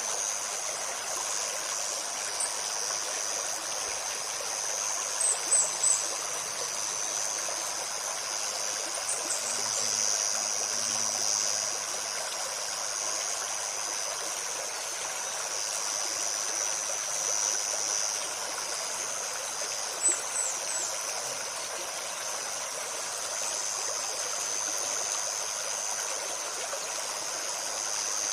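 Small forest stream running and trickling steadily over stones. A few short high bird chirps break in, in little clusters about five seconds in, around nine seconds and around twenty seconds.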